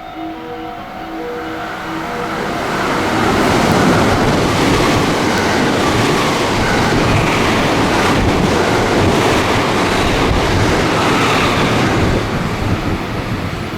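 A train running through a station at speed without stopping: rushing wheel and air noise builds over the first few seconds, stays loud for about eight seconds, then eases off near the end. A few steady electronic tones at the start fade out as it arrives.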